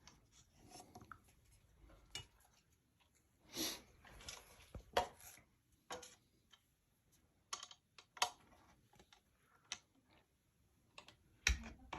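Scattered light clicks and clinks of small metal parts and a fan blade being handled, with a few louder brief knocks and rustles.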